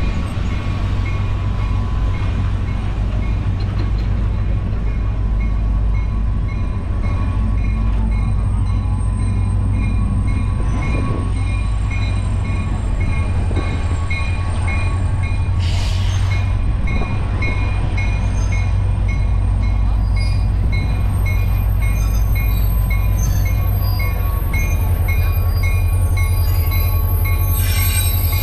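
Passenger coaches and a caboose rolling slowly past over a grade crossing, with a steady low rumble from the wheels and a bell ringing in an even beat. Near the end the rear locomotive, an EMD SD40 diesel with a two-stroke 16-cylinder engine, draws up and its engine grows louder.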